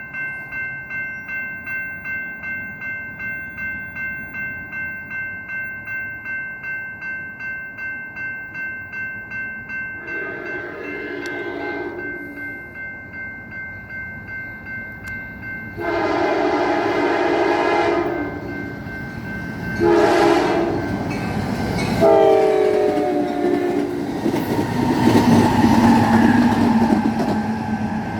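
Grade crossing bell ringing about twice a second. Then the Amtrak Cascades locomotive horn blows the long, long, short, long grade crossing signal, the last blast dropping in pitch as the train goes past. The train's passing noise follows.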